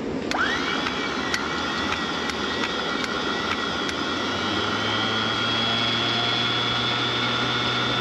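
Electric anchor windlass motor, bench-tested on a battery, starting with a quick rising whine and then running steadily in the 'up' direction. It runs after two cables were swapped on its contactor, half of which has failed.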